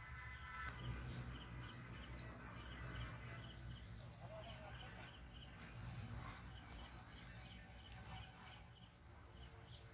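A small bird chirping over and over in short, high notes, about three a second, over a low steady rumble.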